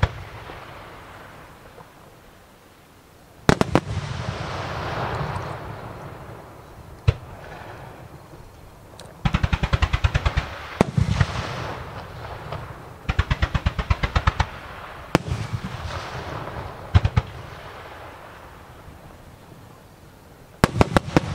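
Fireworks display: sharp single bangs and two rapid volleys of about nine bangs a second, as rows of shells fire in quick succession, with a rushing hiss lingering after the louder volleys.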